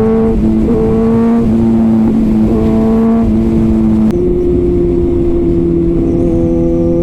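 Kawasaki ZX-6R inline-four through an Arrow titanium exhaust, riding at highway speed. The engine note steps up and down in pitch several times in the first four seconds, then holds and slowly rises. Wind rush sits underneath.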